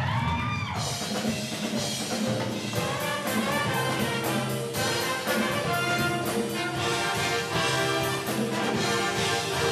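Show-choir band playing an instrumental dance break: brass-led up-tempo music, with drums and cymbals coming in under a second in and keeping a steady beat.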